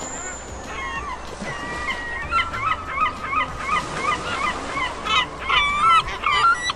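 A flock of geese honking: short calls overlapping more and more densely from about a second in and getting louder toward the end.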